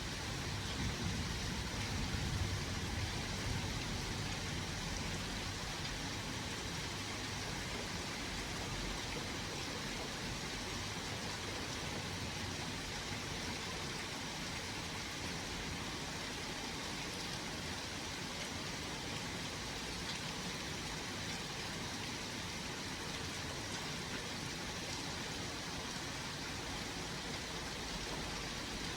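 Steady hiss of thunderstorm rain, with a low rumble dying away over the first few seconds.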